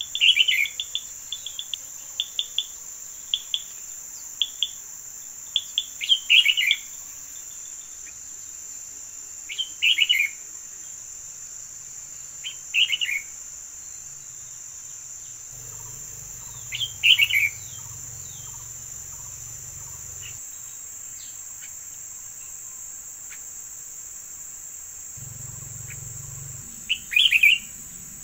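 A songbird sings short, loud phrases of a few quick falling notes, about six of them spaced several seconds apart, with a run of quick chirps in the first few seconds. A steady high insect drone runs underneath.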